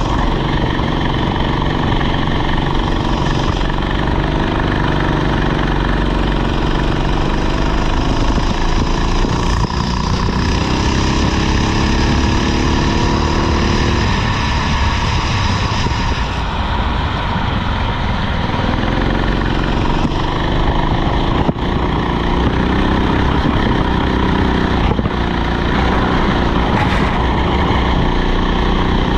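Rental go-kart engine running under throttle, its pitch climbing and dropping as the throttle is opened and lifted. Around the middle it falls away for a few seconds, then climbs again.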